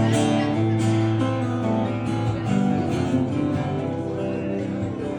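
Acoustic guitar strummed and picked between sung lines of a country song, with sustained chords ringing.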